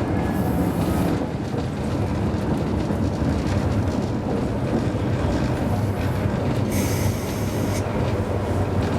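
Hakodate City Tram car 530 running on rails: a steady rumble of the car and its wheels, with two brief high-pitched wheel squeals, just after the start and about seven seconds in.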